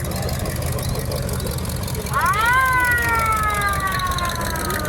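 A siren-like wail that rises sharply about two seconds in and then slowly falls in pitch, heard over the steady low rumble of a car's engine and road noise.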